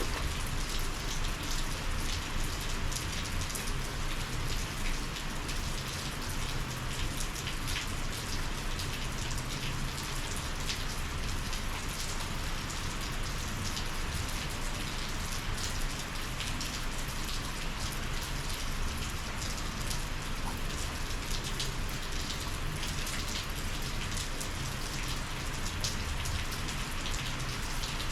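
Steady rain falling, with the hits of individual drops close by standing out as quick, scattered ticks.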